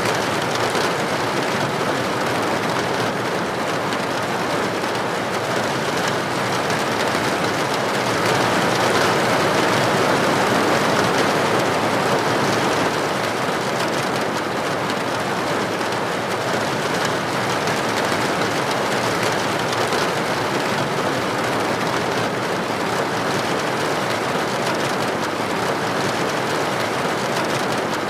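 Steady heavy rain on a window or roof, an even, dense patter that swells slightly a few seconds in and then settles.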